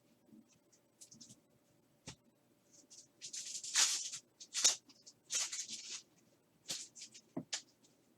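Trading cards and their foil pack wrappers being handled: short papery rustles and swishes, clustered and loudest in the middle, with a few sharp taps of cards against each other or the table.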